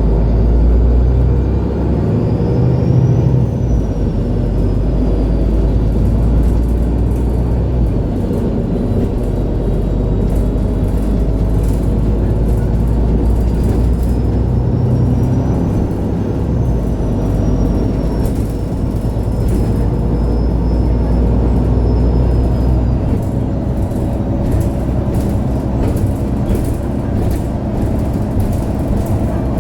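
MAN Lion's City G articulated city bus driving, heard from on board: a steady low engine and road rumble, with a faint high whine that climbs and falls away twice as the bus picks up speed.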